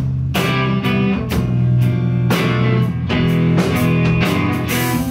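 Live rock band playing an instrumental passage between vocal lines: guitar chords over drum kit, with cymbal hits at a steady beat.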